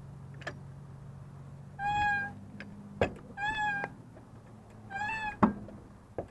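A cat meowing three times, each call short and held at one pitch, with a few sharp knocks in between, the loudest just after the last call.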